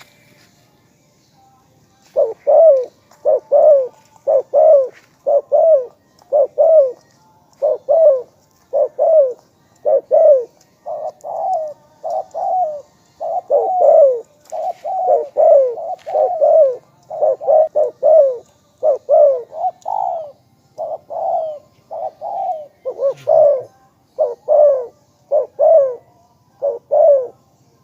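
Spotted dove cooing: a long, steady run of short coos, many in close pairs, starting about two seconds in.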